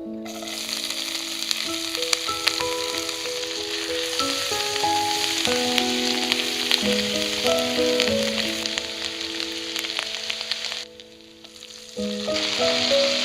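Food frying in hot oil in a pan, a steady crackling sizzle with many small pops, under soft background music. It breaks off briefly about eleven seconds in, then resumes.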